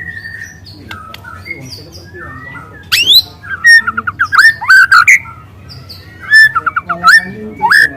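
Young white-rumped shama singing: varied whistled notes, soft at first, then loud phrases of rising whistles and rapid runs of repeated notes from about three seconds in, with a second loud phrase near the end. The runs are the long, loud canary-like bursts valued in this bird's song.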